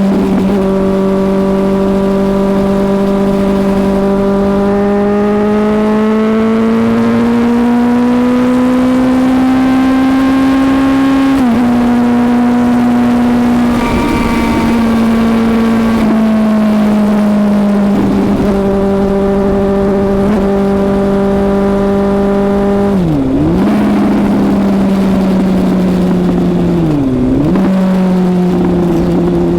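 Suzuki GSX-S750's inline-four engine running under load at road speed. Its pitch holds steady and climbs slowly, dips briefly a few times, and drops and recovers sharply twice in the last third.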